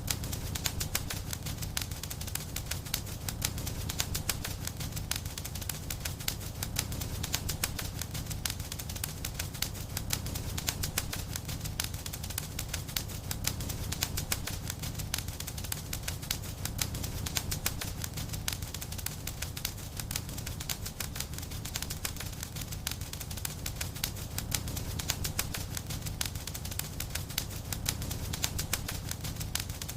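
Wood fire burning in a fireplace, crackling with a constant run of small irregular pops and snaps over a low, steady rumble of flames.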